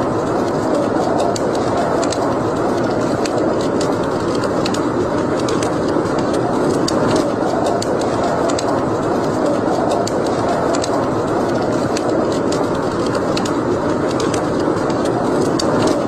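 Wood fire burning in a fireplace: a steady noise of the flames with frequent small crackles and pops scattered throughout.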